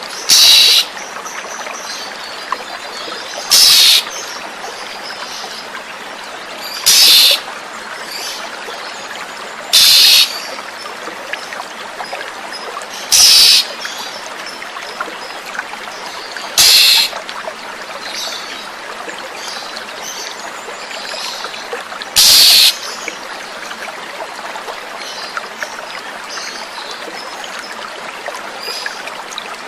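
Flowing water trickling steadily. Over it, a bird gives seven short, loud, harsh calls every three to six seconds, stopping after about 22 seconds, with faint bird twittering in between.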